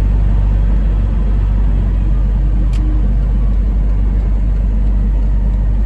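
Semi truck's diesel engine running with a steady low drone, heard from inside the cab, with a single short click a little under three seconds in.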